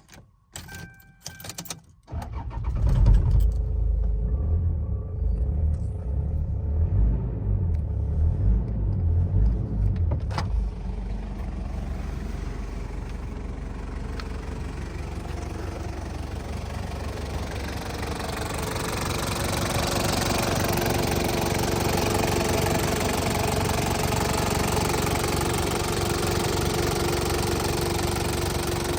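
1996 Toyota Prado's engine started: a few clicks, then it cranks and catches about two seconds in and runs loud and uneven for several seconds. A sharp click comes about ten seconds in, then the engine settles to a steady idle that grows a little louder in the second half.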